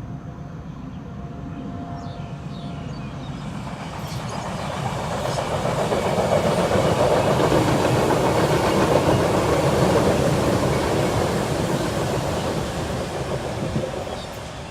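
MTR Disneyland Resort Line M-Train, an electric multiple unit, passing on the track: a rumble of wheels on rail that swells to its loudest in the middle and fades away near the end.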